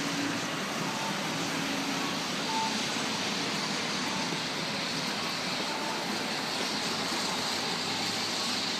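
Steady outdoor city background noise: an even hiss with a faint low hum and a few faint short tones.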